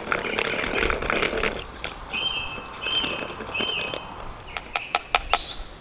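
Birds calling, with one bird giving three short, even, flat-pitched notes in a row about two seconds in. Sharp clicks follow near the end.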